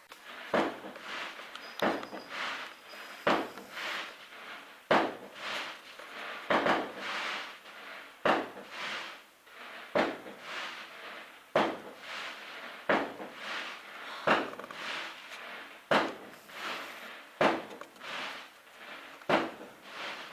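A home fireworks display: a steady barrage of sharp bangs, roughly one every half second to second, each followed by a short fading tail.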